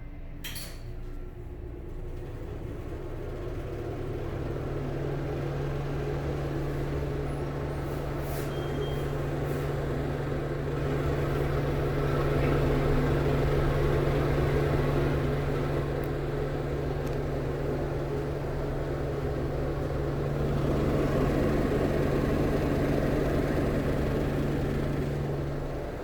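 Cook exhaust fan starting up and running: a steady low motor hum sets in a few seconds in while the rush of air builds over about ten seconds, then holds steady with slight swells.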